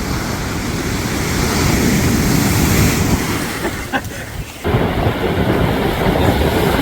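Wind buffeting the microphone over breaking surf: a loud, rumbling rush that dips for about half a second near the middle, then returns.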